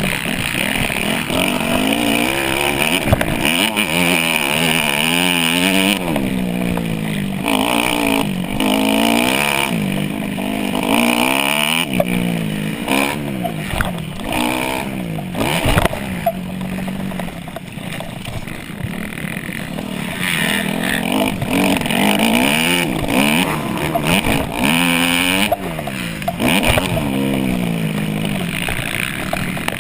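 Dirt bike engine revving, its pitch climbing and dropping back again and again, with wind rushing over the microphone and scattered knocks.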